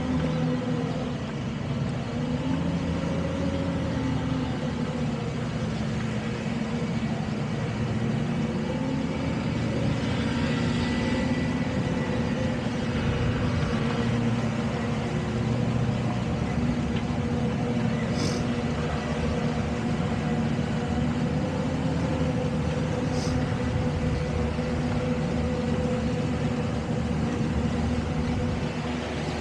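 Towboat engine running steadily under way while towing, a constant hum over wind and water noise, with two faint clicks later on.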